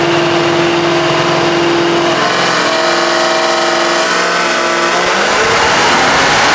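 Supercharged LT4 V8 of a Cadillac CT5-V Blackwing making a full-throttle dyno pull, its note climbing in pitch with a brief dip about five seconds in before climbing again.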